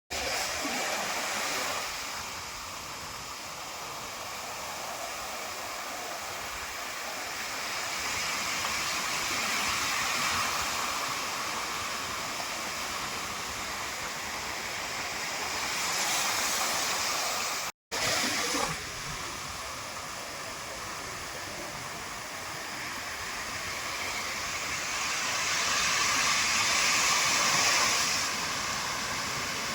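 Sea surf on a beach: a steady rushing noise that swells and eases every several seconds. The sound cuts out briefly about 18 seconds in.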